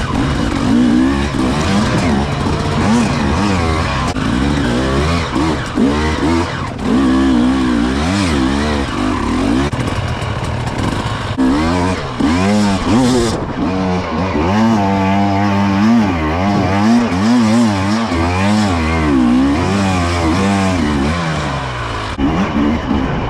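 Motocross bike engine revving hard and dropping back again and again, its pitch sweeping up and down as the throttle is opened and shut through the gears.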